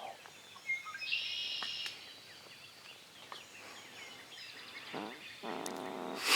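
Songbirds singing in the woods at dawn, with a bright trilling song about a second in and scattered chirps after it. A lower rattling call comes about five seconds in.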